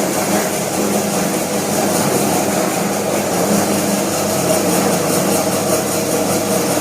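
Fish-bait slicing machine running steadily, its motor and rotating round-blade cutter giving a constant mechanical hum.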